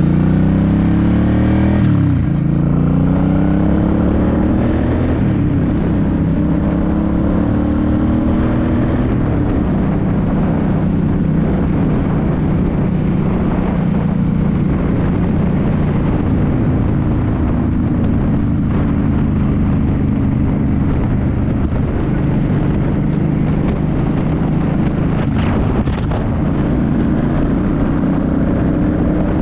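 2006 Suzuki C50's V-twin engine under way: revs climb, drop sharply with a gear change about two seconds in, climb again, then settle into a steady cruise from about nine seconds on, with road and wind noise underneath.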